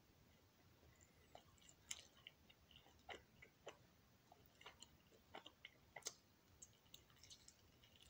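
A person chewing a mouthful of chicken drumstick: faint, irregular mouth clicks and smacks.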